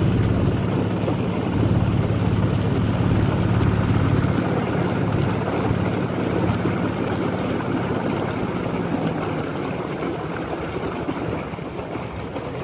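Boat engine running with a steady low hum over wind and water noise, growing fainter over the last few seconds.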